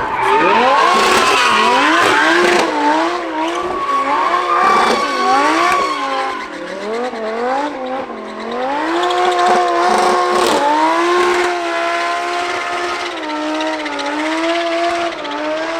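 Racing car engine revving hard, its pitch swinging up and down over and over, then held at high, nearly steady revs through the second half.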